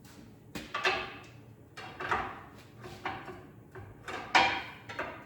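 A series of about six clunks and scrapes, the loudest about four seconds in, each followed by a short fade: work noise from the engine-install job.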